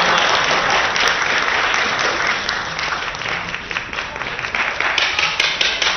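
Spectators applauding, a dense patter of clapping that eases a little in the middle and picks up again about five seconds in with sharper, more distinct claps.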